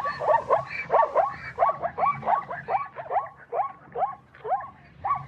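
An animal call, yelp-like, repeated rapidly about three times a second, each call dropping in pitch and the run growing fainter near the end.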